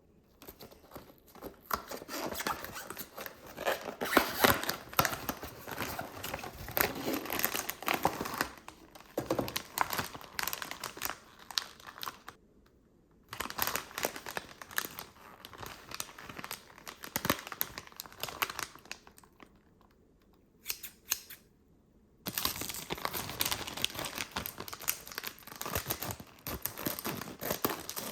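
Plastic packaging of a Kracie DIY candy kit being handled, crinkled and torn open. It comes in stretches with two short pauses.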